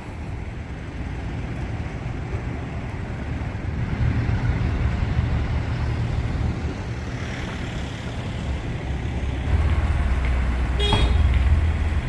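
Road traffic running steadily, a low rumble of vehicle engines that swells as vehicles pass. A short horn beep comes near the end.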